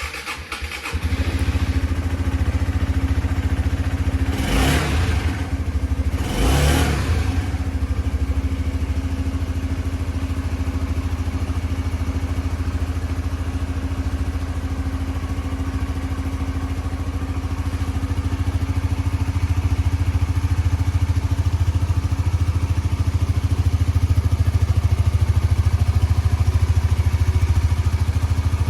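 Suzuki GSX-S125's single-cylinder four-stroke engine starting and catching within about a second, then idling steadily. Two short throttle blips come a few seconds in.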